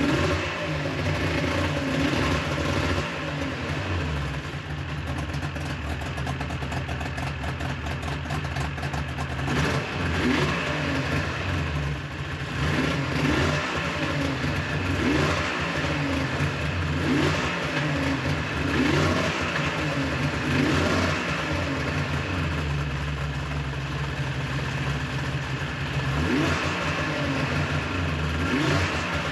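2004 Yamaha Viper snowmobile's two-stroke triple engine running and being blipped, its pitch rising and falling again every second or two. It has freshly cleaned variable exhaust valves and a repaired exhaust manifold.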